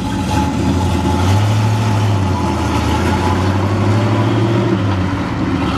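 1969 Shelby GT350 Mustang's 351-cubic-inch V8 running at low, steady revs as the car drives along, through its dual exhaust. The deep engine note swells a little through the middle and eases off near the end.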